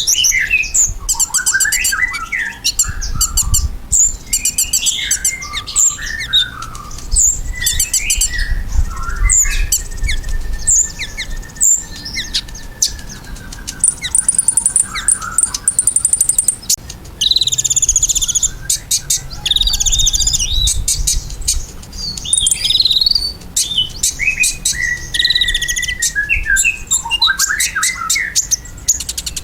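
Kolibri ninja sunbird singing a fast, varied song of high chirps, twitters and rapid ticking trills, with hardly a pause.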